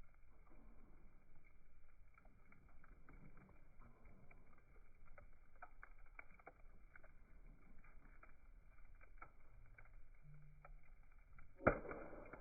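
Campfire crackling faintly with scattered small pops, and one sharp loud snap near the end.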